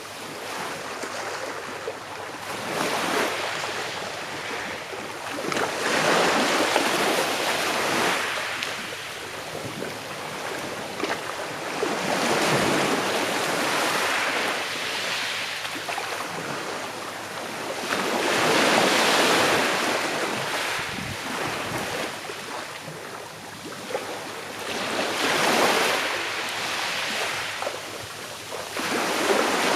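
Calm sea waves gently breaking on the shore, each wave rushing up and washing back, about every five to six seconds.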